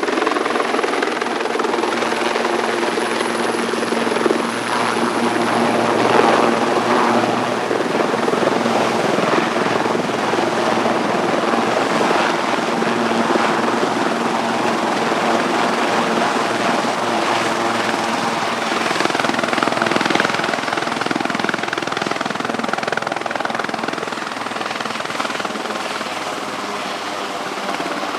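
Sikorsky S-76C helicopter running steadily, its rotor and twin turboshaft engines giving a continuous loud noise with a high thin turbine whine.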